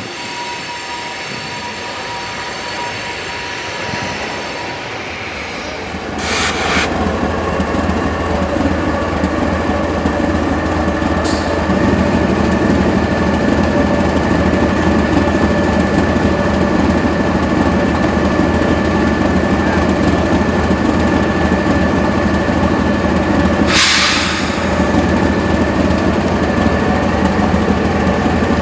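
Freight train running by with steady, ringing metallic squeal from the wheels and a low rumble that grows louder about six seconds in and again near twelve seconds. Two short bursts of hiss come about six and twenty-four seconds in.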